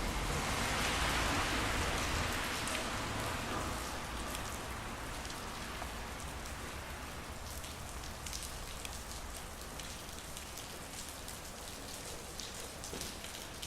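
Steady rain falling, with individual drops ticking sharply close by. A louder rushing swell in the first few seconds fades away into the even rain.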